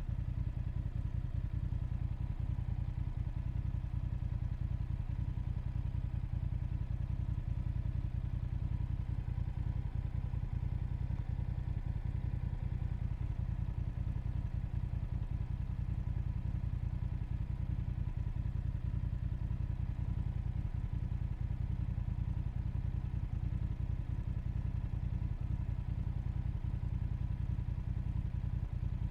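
Motorcycle engine running steadily throughout, its pitch unchanging with no revving.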